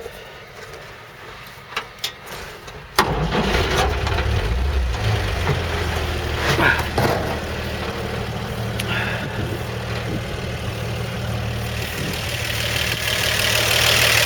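A few clicks, then the 1955 Chevrolet 3100's original 235 cubic inch inline-six starts about three seconds in, catching straight away and settling into a steady, very quiet idle without the usual tappet noise.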